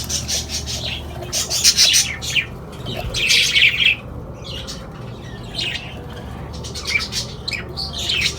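A colony of budgerigars chirping and squawking in short, repeated calls, over a low steady hum.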